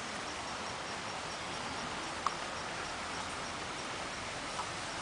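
Steady outdoor background hiss with a faint high note repeating about three times a second, from an insect or small bird, and one short sharp click about two seconds in.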